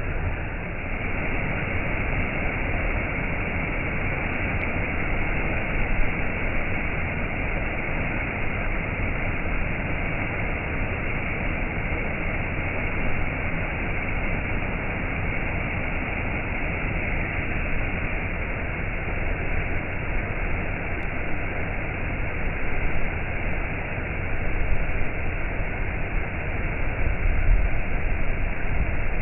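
Waterfall: a steady, dense rush of falling water, with slight swells in level.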